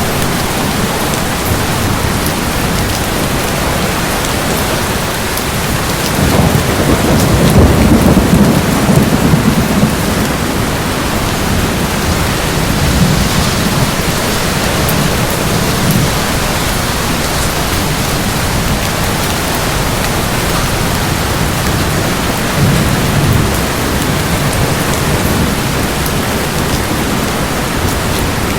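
Steady heavy rain with a long rumble of thunder that swells about six seconds in, peaks and fades over several seconds. A shorter, fainter rumble follows later on.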